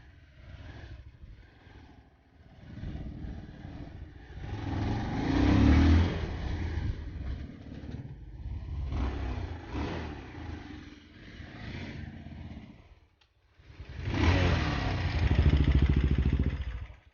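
Motorcycle engines running and revving on a rough track, with clattering, swelling loud twice: once around five to six seconds in and again near the end, where the sound cuts off abruptly.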